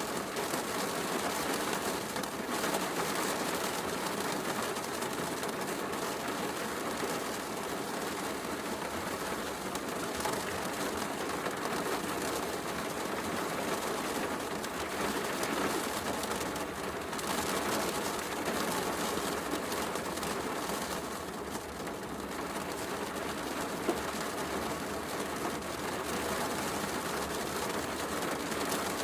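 Heavy rain falling steadily, mixed with a fireplace crackling, with one sharp pop about 24 seconds in.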